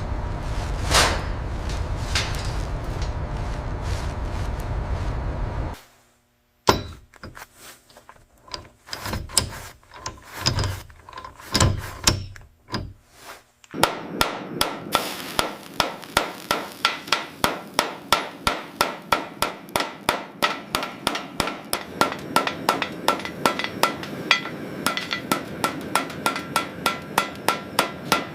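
Hammer striking steel rebar: scattered single blows, then a long steady run of ringing metal-on-metal strikes at about three a second, shaping the bar into a gaff hook. Before the hammering, a steady noise cuts off suddenly about six seconds in.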